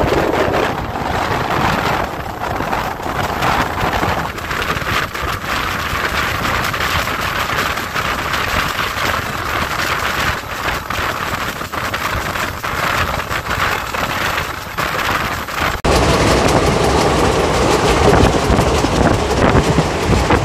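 Passenger train coach running at speed, heard from its open doorway: wheels rolling over the rails with a continuous rush of wind. About 16 s in the sound jumps suddenly to a louder, fuller running noise.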